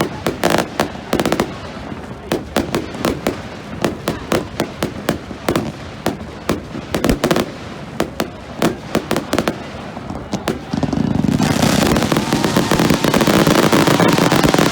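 Fireworks going off: many sharp bangs and crackles in quick succession, turning about eleven seconds in into a dense, continuous crackling barrage, with a crowd's voices underneath.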